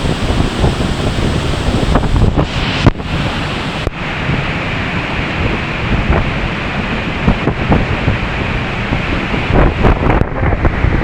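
Large waterfall rushing loudly at close range, with spray and wind buffeting the microphone in irregular knocks and dropouts.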